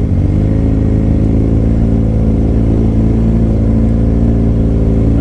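Motorcycle engine idling steadily, with a small blip of the throttle right at the start.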